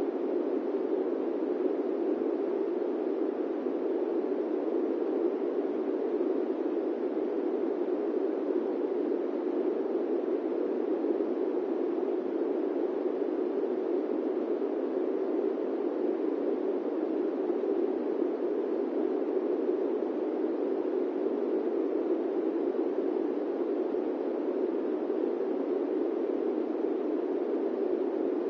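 Steady airplane cabin noise in flight: an even, unchanging rushing hiss, deepest in the low-middle range, with no distinct engine tones.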